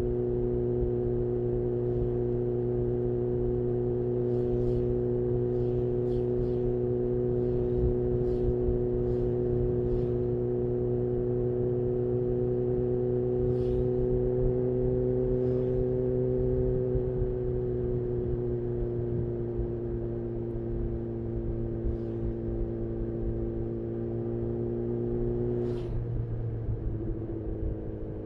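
Honda CB1000R inline-four engine running through a full-system Black Widow exhaust, cruising at steady revs. The pitch creeps up slightly, eases down slowly, then drops more sharply near the end. A scatter of short sharp ticks falls over the engine in the first ten seconds.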